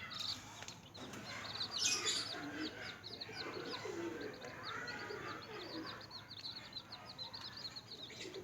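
Newly hatched chicks peeping constantly, many short high chirps a second overlapping, with lower calls underneath and a louder flurry about two seconds in.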